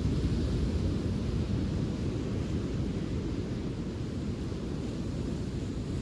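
Steady low rumble of wind buffeting the microphone, with a fainter even hiss above it.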